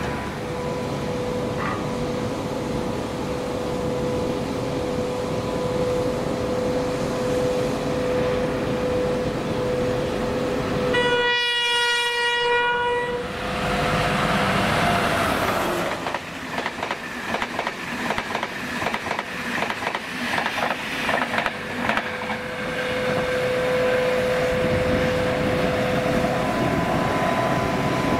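Irish Rail 201 class diesel locomotive hauling a Mark 4 passenger train: one horn blast of about two seconds, then a rapid clickety-clack of wheels over the rail joints as the train passes.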